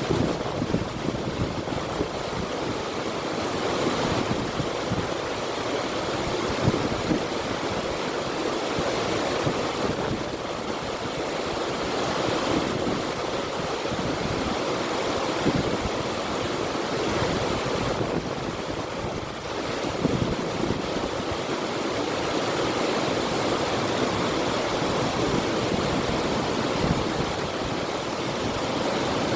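River water rushing steadily, an even, unbroken noise of flowing water.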